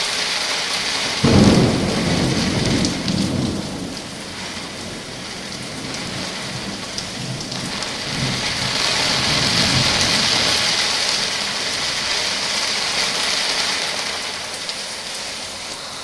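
Steady heavy rain with a sudden thunderclap about a second in that rumbles for a few seconds, then a fainter roll of thunder later. The rain swells, then eases toward the end.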